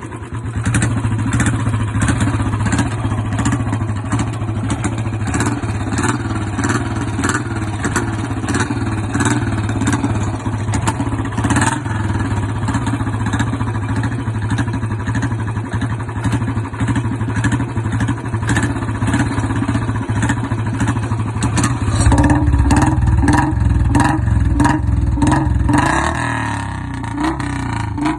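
Royal Enfield Bullet single-cylinder engine running steadily with a regular thumping beat, which the owner calls silent. Towards the end it gets deeper and louder, then the revs rise.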